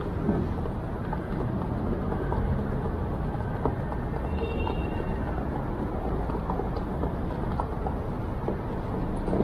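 Steady rumble of city street traffic, with a few faint clicks and a brief high chirp about four and a half seconds in.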